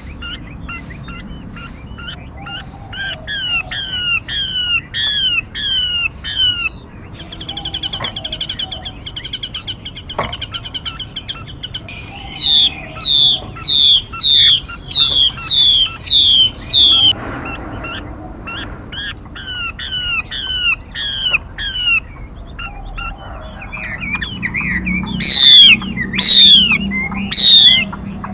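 Calls of a female 'mi' songbird for use as a lure: series of quick downward-slurred whistled notes, about two a second, with a buzzy trill a third of the way in. The loudest notes come in a run midway and as three strong calls near the end.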